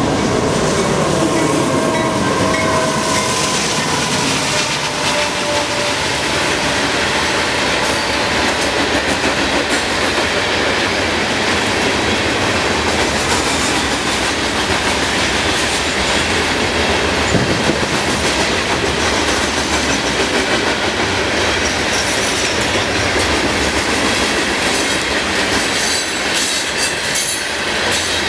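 CSX freight train cars rolling past in a steady loud rumble, with wheels clicking over rail joints. High wheel squeal rings out over the first few seconds, and there are scattered sharp clanks near the end.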